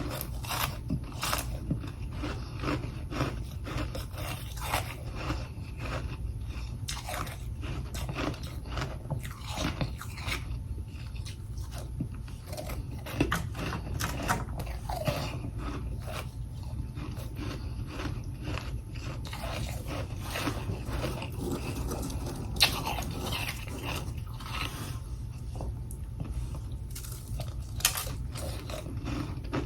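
Close-up crunching and chewing of freezer frost and ice chunks, with irregular crisp bites and crunches throughout over a steady low hum.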